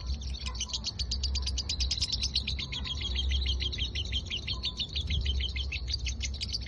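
Lovebird ngekek: a long, unbroken, rapid chattering trill of about ten high notes a second. This is the continuous 'konslet' style of lovebird song.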